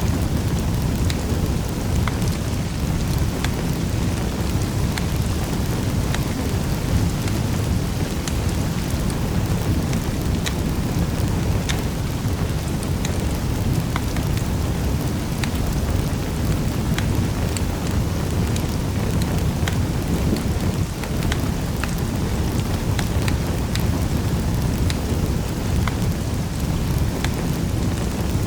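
Wood fire crackling in a fireplace: a steady low rumble of burning with scattered sharp pops and snaps.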